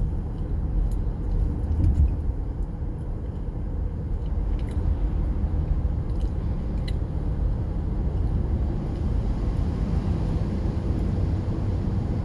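Steady low rumble of tyre and engine noise inside a moving SUV's cabin, with a few faint clicks.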